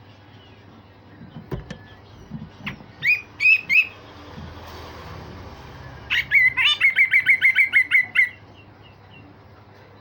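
Grey-cheeked bulbul (cucak jenggot) singing: a few separate sharp notes, then a fast run of about a dozen repeated loud notes, some six a second, which stops abruptly.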